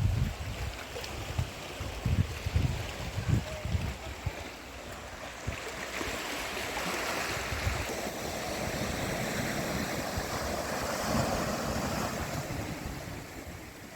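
Sea waves washing onto a rocky shore, a steady rushing surge that swells through the middle and eases off near the end. Wind buffets the microphone in the first few seconds.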